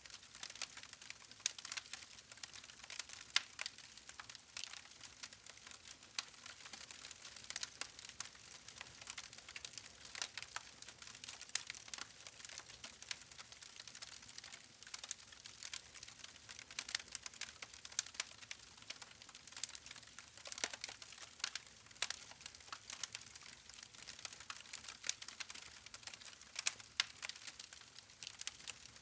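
Wood fire crackling: a dense, irregular run of sharp pops and snaps over a faint hiss.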